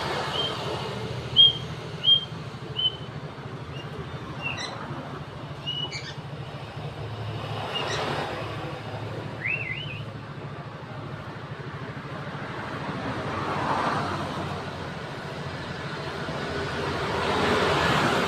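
White-rumped shama giving short, sharp chirps, several in quick succession at first, then scattered, with a brief warbled note about ten seconds in. In the second half, rushing noise from passing vehicles swells twice over a steady low hum.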